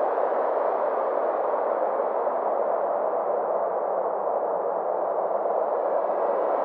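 Synthesized space ambience: a steady, airy drone centred in the middle range, its brightness slowly sinking and then rising again.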